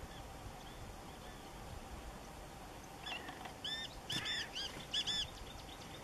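A bird calling: a quick run of about eight short, arched notes over some two seconds, starting about halfway through, after a few faint notes near the start.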